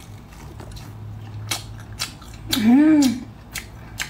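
Close mouth sounds of someone eating chili-coated lobster claw meat: a string of sharp wet chewing clicks and smacks. About two and a half seconds in comes a short hummed 'mmm' that rises and falls in pitch.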